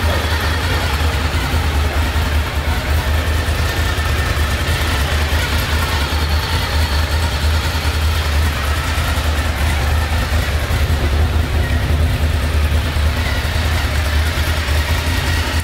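Honda VFR750's V4 engine idling steadily.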